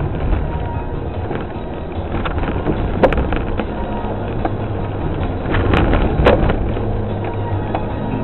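Rally car's engine running with road and wind noise, heard from inside the car. A few sharp knocks come through, about three seconds in and again around six seconds in.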